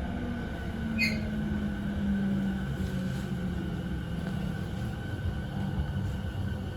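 E217 series electric train running, heard from inside the car: a low steady Mitsubishi IGBT inverter motor tone that fades out about two and a half seconds in, over rumble of wheels on rail. A brief high metallic squeak about a second in.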